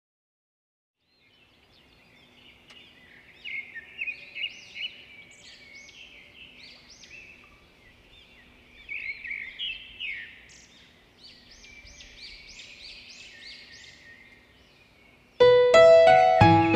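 Birds chirping and twittering, many short overlapping calls with quick rising sweeps, over a faint steady hum. About a second before the end, piano music starts loudly.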